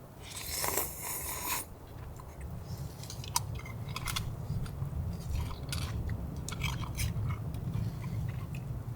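Person eating: a short noisy burst about half a second in, then chewing and crunching with scattered light clicks, over a low steady rumble.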